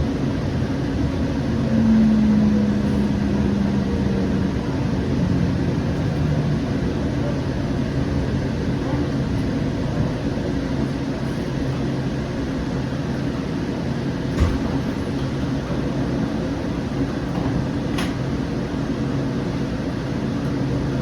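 Inside a Siemens S700 light rail car running and slowing: a steady low rumble, with a motor whine that falls in pitch from about two seconds in as the train slows for the stop. Two sharp clicks come later.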